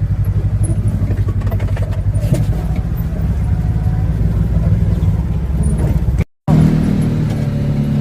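Vehicle engine running steadily while driving, with a low pulsing hum, heard from on board. It cuts out for a moment about six seconds in and comes back with a different engine note.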